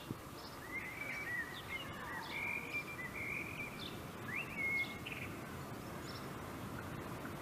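Small birds chirping and singing in short whistled phrases over a steady low background rumble of outdoor noise.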